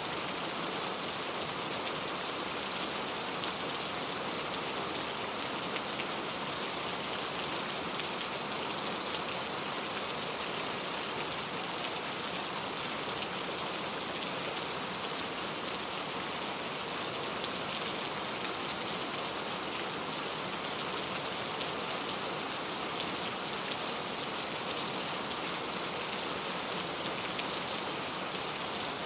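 Steady rain falling, an even hiss of many drops with the odd sharper drop tick standing out.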